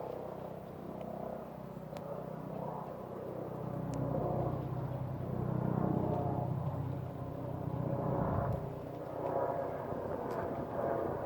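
Medical helicopter flying over, its rotor and engine making a steady low drone that swells to its loudest around the middle and then eases slightly.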